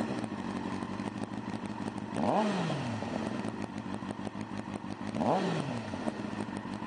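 2007 Kawasaki ZZR600's liquid-cooled 600 cc inline-four, fitted with a Two Brothers racing exhaust, idling and blipped twice, about two seconds in and again about five seconds in. Each blip rises quickly in pitch and falls back to idle.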